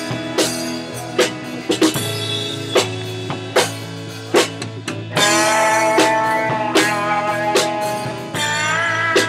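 Rock band music: guitar over a drum kit keeping a steady beat of about one hit every 0.8 seconds. The music gets louder and fuller a little over five seconds in.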